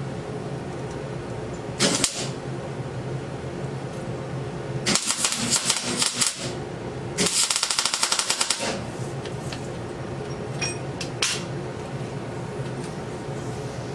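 Electric welder arc crackling in three bursts over a steady hum: a short one about two seconds in, then two longer runs of about a second and a half each around the middle. It is welding a truck differential's center solid to make a locked rear end.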